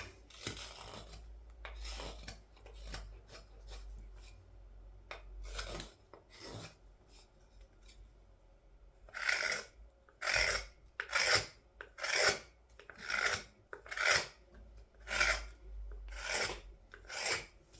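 Carving knife shaving green wood, scraping strokes: scattered, softer cuts at first, then from about halfway a steady run of louder strokes roughly one a second.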